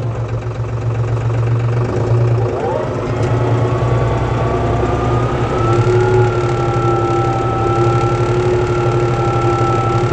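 Tractor diesel engine running, its pitch rising about two to three seconds in and again around six seconds in, then holding steady.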